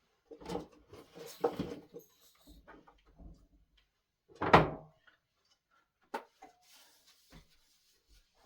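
Knocks and clatter of things being handled in a small kitchen, like doors or drawers being shut: a cluster of clatter in the first two seconds, one sharp knock about four and a half seconds in, then a few light clicks.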